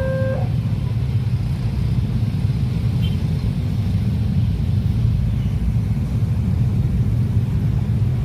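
Train passing close by a level crossing: a steady, loud low rumble. An alternating two-tone crossing warning signal cuts off about half a second in.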